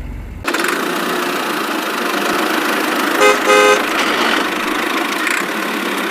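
Vehicle running with a steady engine noise, and two short horn toots a little past three seconds in.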